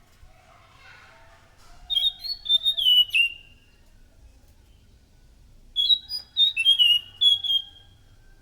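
An anis macan thrush singing: two short phrases of clear, quick whistled notes that step up and down and end with a falling note, separated by a pause of a couple of seconds. Fainter, lower chirping runs underneath.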